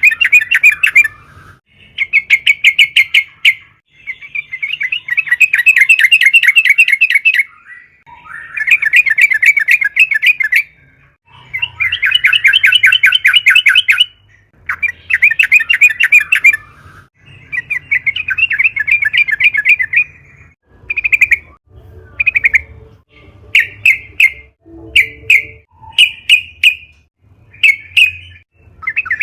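Yellow-vented bulbul (trucukan) singing loudly: bursts of rapid bubbly chattering, each a second or two long with short pauses between, breaking into short single phrases about once a second near the end.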